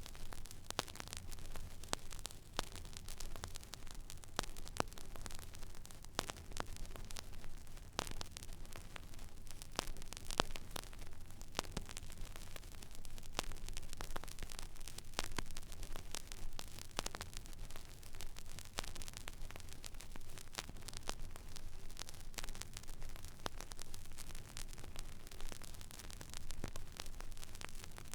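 Record player stylus riding an empty vinyl groove: steady surface hiss with frequent irregular crackles and pops, over a low hum.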